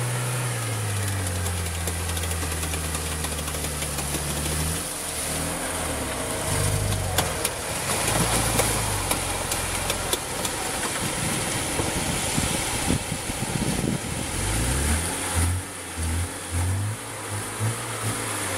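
Lada Niva 4x4 engine revving under load as it churns through deep mud and slush. The note rises and falls at first, turns rough and noisy in the middle, and near the end comes in short repeated bursts of throttle.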